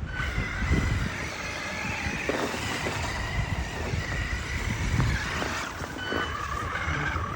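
Electric motor of a Traxxas RC car whining as it drives, the pitch rising and falling with the throttle, over a steady rushing noise and low rumble.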